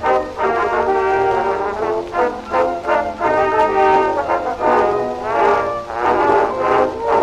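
Acoustically recorded 78 rpm record of a cabaret dance orchestra playing a one-step, with brass to the fore.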